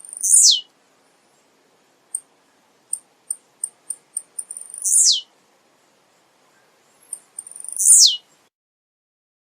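Male blue-black grassquit (tiziu) singing three songs, each a run of short high ticks coming faster and faster, then a loud note sweeping down in pitch.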